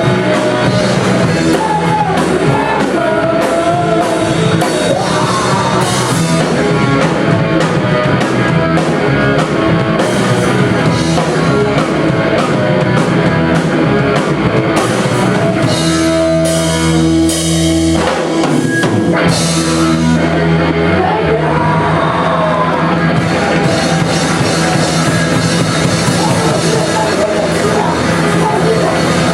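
A rock band playing live, loud: drum kit, guitars and a singing voice.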